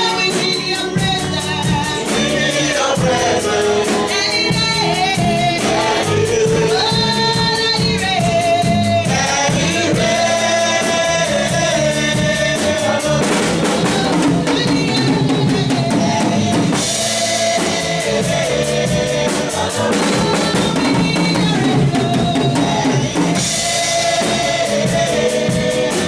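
Gospel worship song: voices singing a melody over a steady drum-kit beat with bass drum and snare.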